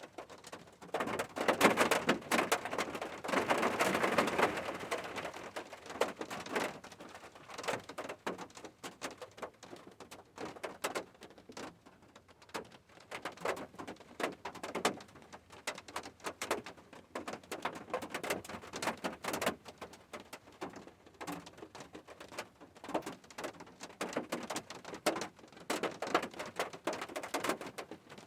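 Rain falling, heard as many irregular drips and patters, heavier for the first few seconds and then sparser.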